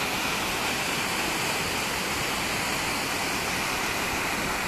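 Pistyll Rhaeadr waterfall: a steady, unbroken rush of falling water.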